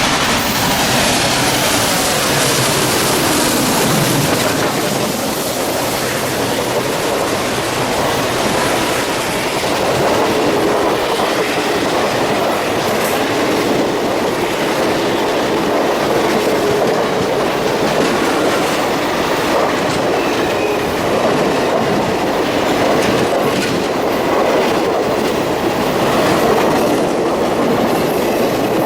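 Train cars rolling past on the rails, a steady clatter and rumble of wheels over the track. A tone falls steeply in pitch over the first few seconds.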